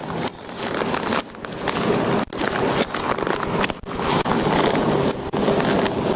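Steady rushing noise of wind buffeting the microphone, mixed with highway traffic going by, with a couple of brief dips.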